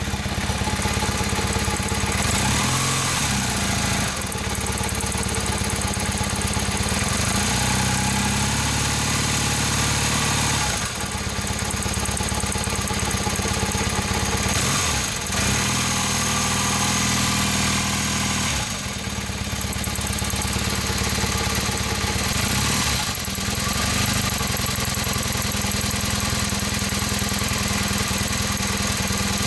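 Honda CM450C motorcycle's parallel-twin engine running while still fairly cold, idling and revved up and back down a few times, with an odd noise from the cylinder head.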